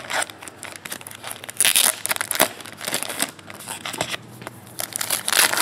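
Trading-card pack wrappers being torn open and crinkled by hand, in irregular bursts of crackling and tearing.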